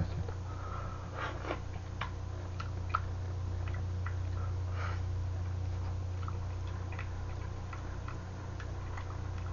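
Quiet eating sounds: scattered small clicks and crackles as a man chews bony freshwater eel pieces from a spicy fish stew, over a steady low hum.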